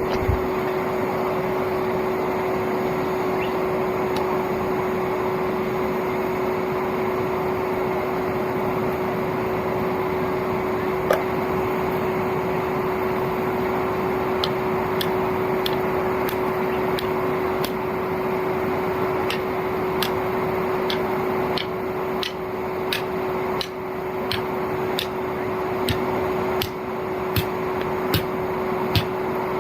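Old vacuum cleaner motor running steadily as the air blower of a homemade coal forge, a constant whine over a loud rush of air. From about halfway in, a series of sharp clicks or taps comes about once or twice a second.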